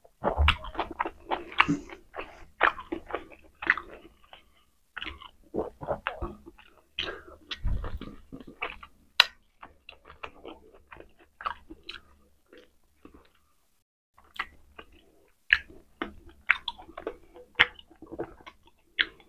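A person chewing and biting food close to the microphone: a rapid run of mouth clicks and smacks, with a short pause about two-thirds of the way in.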